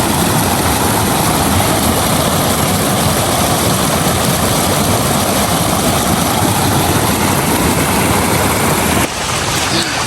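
Waterfall close by: a loud, steady rushing of falling water that drops away suddenly near the end.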